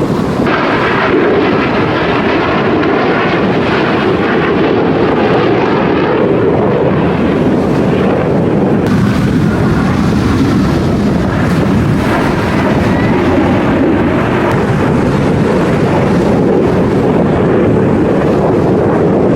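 Fixed-wing aircraft flying in an air display: a loud, steady rushing engine noise that holds for the whole stretch, with a faint whine in the first few seconds.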